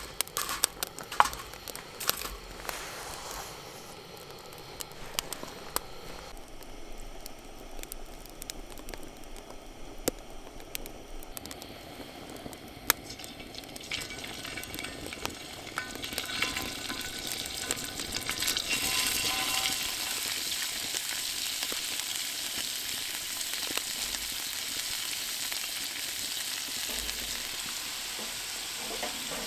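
Food frying with a steady sizzle that grows louder about halfway through, with scattered clicks and knocks of cookware being handled in the first few seconds.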